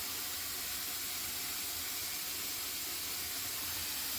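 Warm water running steadily into a tub as it fills, an even hiss that holds without a break.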